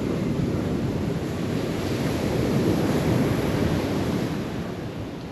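Ocean surf breaking and washing on the shore, mixed with wind on the microphone; the rush swells about two seconds in and then fades toward the end.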